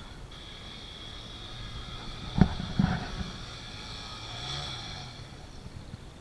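Dirt bike engine running at low revs, rising slightly about two-thirds of the way through, with two sharp knocks close together a little before the middle.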